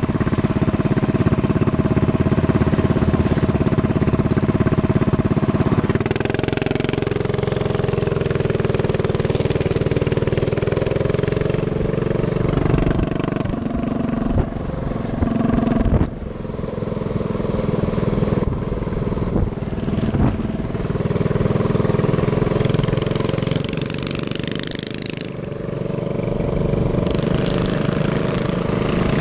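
Minibike's small engine running while riding, its pitch shifting up and down with the throttle, with a brief drop in level about sixteen seconds in.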